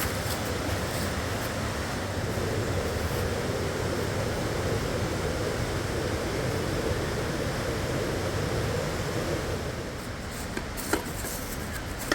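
Rushing river water, a steady dense noise that eases slightly near the end, with a single sharp knock about a second before it ends.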